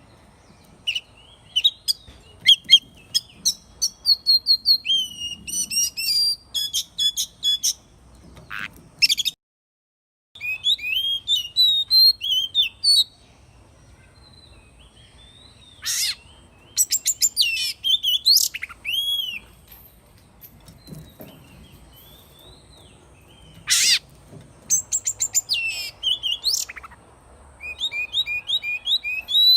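An oriental magpie-robin singing varied whistled phrases with a few harsh notes mixed in. The song comes in bursts separated by pauses, and the sound cuts out completely for about a second about a third of the way in.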